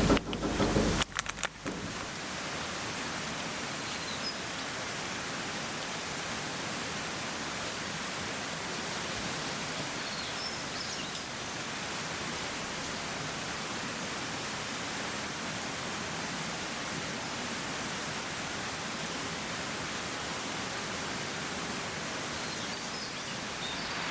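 Steady rushing of running water from a mountain stream, with a few faint bird chirps. A few short knocks come in the first two seconds.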